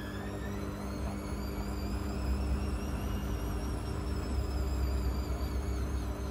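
Blomberg fuzzyDigitronic Granat 3200 washing machine running, its drum motor whining with a pitch that rises and wavers as the drum changes speed, over a steady hum and a low rumble that grows stronger after about two seconds.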